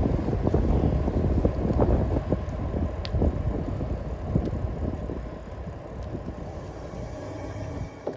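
Wind buffeting the microphone of a moving cyclist, a heavy low rumble dotted with small clicks and rattles. It eases off over the last few seconds.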